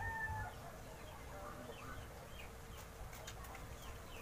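Faint bird chirps in the background: many short, falling notes scattered throughout, over a faint steady hum.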